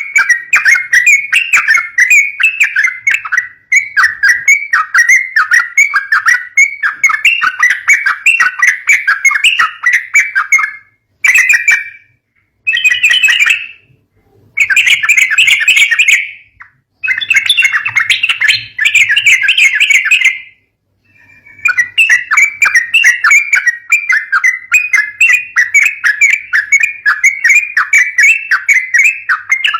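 Yellow-vented bulbul (trucuk) chattering in fast, loud runs of short notes, broken by a few brief pauses, around 11, 14, 17 and 21 seconds in. These are the fighting calls used as a lure for young bulbuls.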